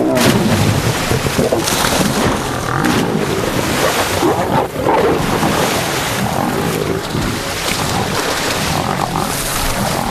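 Lionesses growling in a close fight with a buffalo bull in swamp water, with water splashing and churning throughout.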